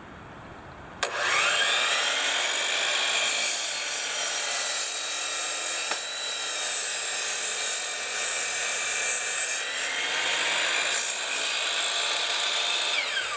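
An electric power saw spins up about a second in and cuts through a wooden post for about twelve seconds. The motor then winds down with a falling whine near the end.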